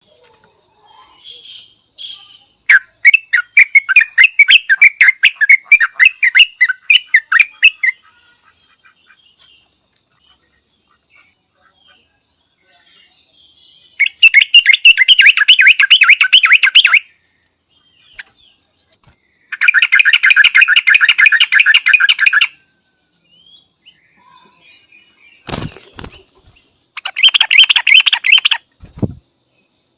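Yellow-vented bulbul calling in four bursts of fast repeated chattering notes; the first runs about five seconds, the others two to three seconds. Two dull thumps come between the last bursts.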